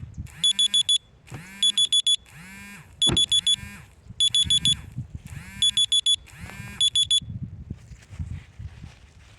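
Electronic alarm beeping in quick bursts of about four high beeps, repeating about once a second, then stopping about seven seconds in.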